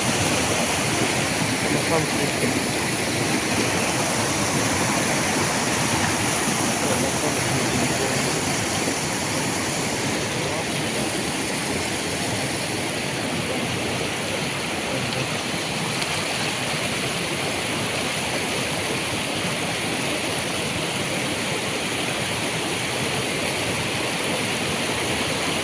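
Steady rushing of a waterfall, a constant noise of falling water.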